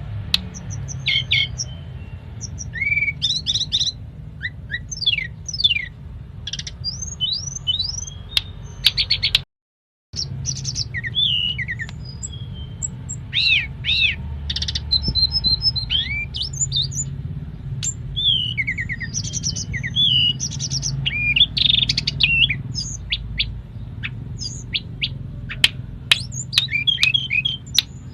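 Tledekan gunung (lesser shortwing) singing in full, busy song: rapid chirps and quick rising and falling whistled notes, with imitated phrases of other birds such as the cimblek and canary. The song breaks off in a short silence about nine and a half seconds in, then carries on, over a steady low hum.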